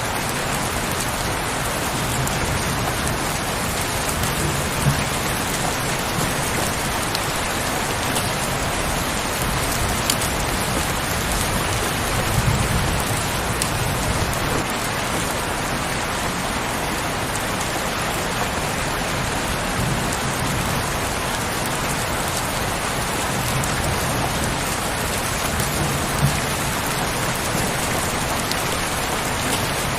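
Heavy rain falling steadily, a dense even hiss of drops, with a few brief low rumbles every several seconds.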